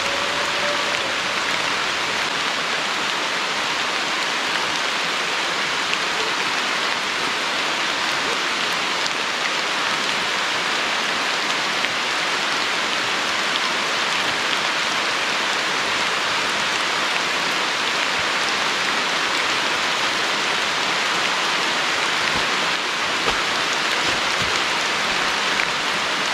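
Heavy rain falling steadily, an even hiss of drops on leaves and the surface.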